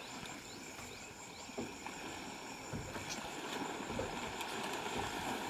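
River water sloshing and splashing, with a few soft knocks and splashes, over a steady high-pitched drone. Two short rising chirps come in the first second and a half.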